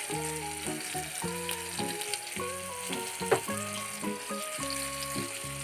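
Chopped tomato, green chilli and bay leaf sizzling in hot mustard oil in a steel kadai, stirred with a spatula as panch phoron spices go into the oil. Background music of slow, held notes plays over the frying.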